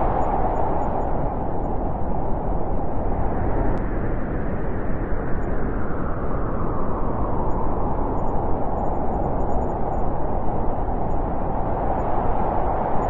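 Soft, steady wind blowing, a continuous rushing whoosh that eases a little a couple of seconds in and swells again near the end.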